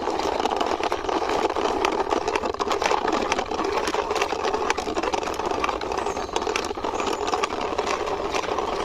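Toy tractor pushed along by hand, its wheels rolling on a hard surface with a steady grinding rumble and many small clicks.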